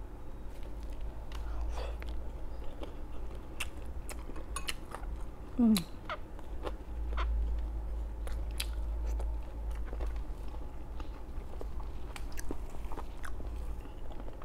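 A person chewing and crunching crispy fried food, with many small clicks and smacks. About six seconds in comes a short hummed voice sound falling in pitch, the loudest moment. A steady low hum runs underneath.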